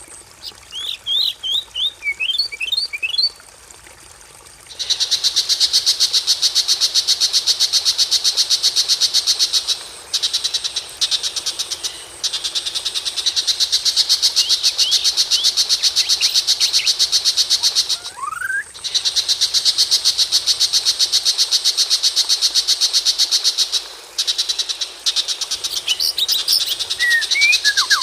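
Recorded songbird calls. A few quick whistled notes come first, then long runs of a fast, even, high-pitched rattling trill that stop and start again several times. A single rising whistle comes about two-thirds of the way in, and a burst of varied chirps closes the window.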